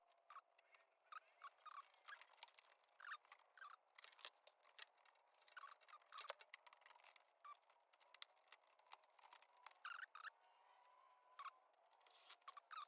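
Faint, scattered small clicks and scrapes of wiring connectors being pulled apart by hand, as the heater's wiring is unplugged.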